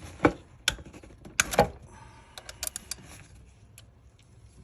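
Hand tools clicking and knocking against metal, a few separate sharp clicks with the loudest about a quarter second and a second and a half in, then lighter ticks: a socket and extension being handled around the 1UR-FE V8's ignition coil.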